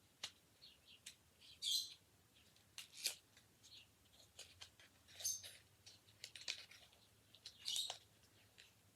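Faint handling noises of a brow pencil and its packaging: scattered small clicks and ticks, with three brief rustles, about a second and a half, five seconds and near eight seconds in.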